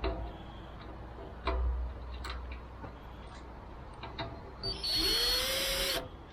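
Light clicks and knocks of parts being handled, then a power drill running for about a second near the end, its pitch rising as it spins up.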